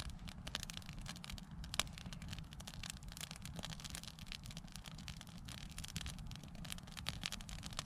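Wood campfire burning, crackling with many small sharp pops and snaps over a steady low rumble.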